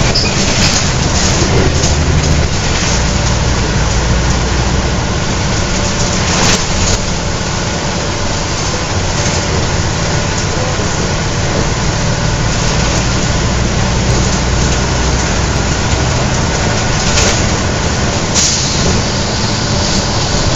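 Scania L113CRL bus under way, heard from on board: its 11-litre six-cylinder diesel engine and driveline running steadily, with a few brief knocks and rattles.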